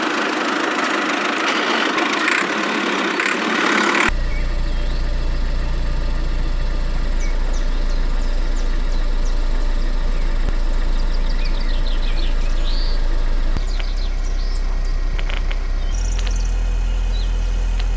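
A hissing noise for about four seconds, then an engine idling steadily with a low hum, louder near the end, with faint high chirps over it.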